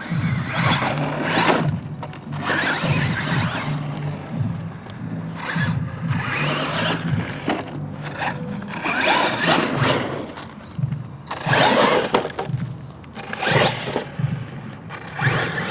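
1/10 scale brushless electric RC truck (Exceed RC Legion 10) driving on loose, dry dirt, with repeated surges of motor and tyre noise as the throttle comes on and off.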